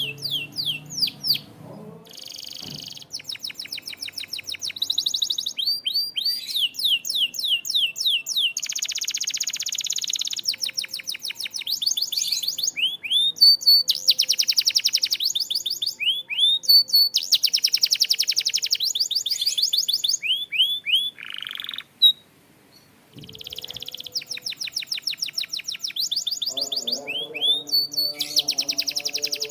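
Canary singing in phrases of fast trills and repeated swooping notes, with a brief pause a little past two-thirds of the way through. Soft background music sounds at the start and comes back near the end.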